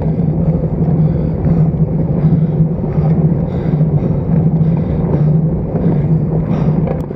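Steady rush of wind and road noise picked up by a bicycle-mounted action camera while riding at speed, with a constant low hum underneath.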